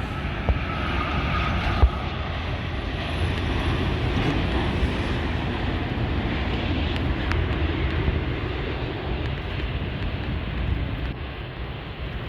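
Jet airliner engines passing on approach: a continuous rumbling roar with a faint high whine that slowly falls in pitch, swelling through the middle and easing off near the end.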